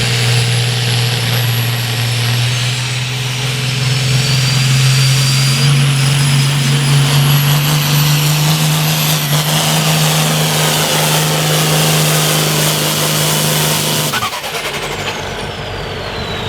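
International farm tractor's diesel engine running hard at full throttle while pulling the sled, its pitch creeping up as the run goes on. About 14 s in the engine drops off as the pull ends, and a high whine falls slowly away.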